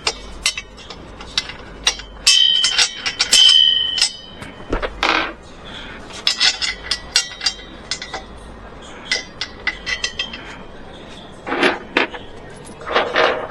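Hand-tool work: a string of irregular sharp knocks and metallic clinks, a few of them ringing briefly.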